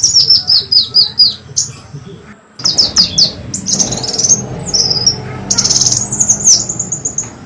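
Kolibri wulung sunbird calling as a lure recording: rapid series of sharp, high, downward-slurred chirps, a brief break about a third of the way in, then more chirps and a quick trill.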